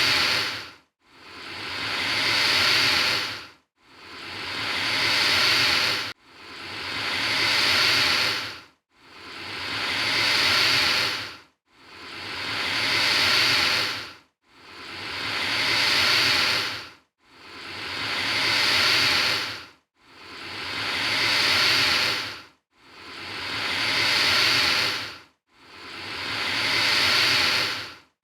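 Alligator hissing: a breathy hiss that swells and then cuts off sharply, repeating at an even pace about every two and three-quarter seconds, about ten times.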